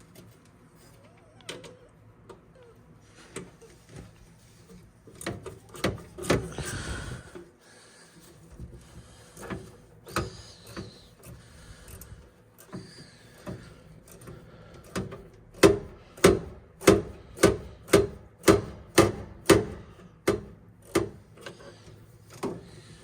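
Small hand ratchet clicking in a steady run of strokes, about two a second, as the furnace's flame sensor mounting screw is backed out. Before that come scattered knocks and rustling from handling parts inside the furnace cabinet.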